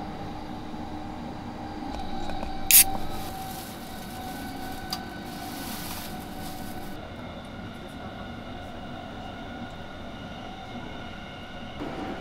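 Steady running noise inside a JR E235 electric train car, with level humming tones. About three seconds in, a sharp crack like a drink can's pull tab being opened, followed by a few seconds of high fizzing hiss that stops suddenly.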